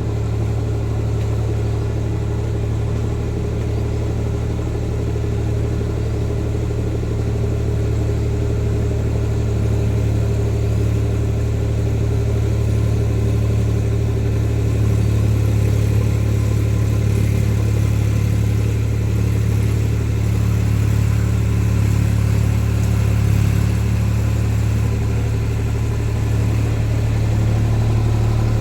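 Tractor engine running steadily, a deep, even drone.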